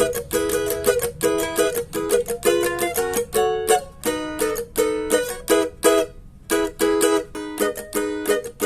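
Cavaquinho strumming rhythmic chords, with a short pause about six seconds in.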